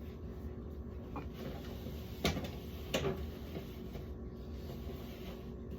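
Three light knocks of plastic things being handled and set down, about a second, two seconds and three seconds in, over a steady low hum.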